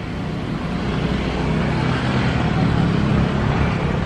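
A vehicle's engine hum with road or rail noise, growing louder to a peak about three seconds in and then easing off slightly, as a vehicle passes close by.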